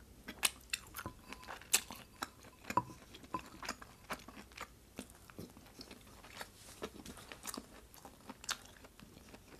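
A person chewing a mouthful of food close to the microphone: many short, sharp, wet mouth clicks at an irregular pace, several a second.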